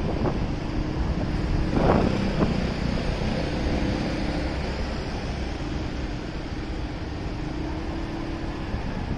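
Wind rushing over the microphone of a riding motorcycle, with a steady low engine hum underneath and a brief louder gust about two seconds in.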